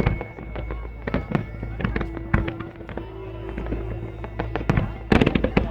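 Fireworks display: a rapid, irregular series of bangs and crackles, coming thickest in a dense cluster about five seconds in, with music playing alongside.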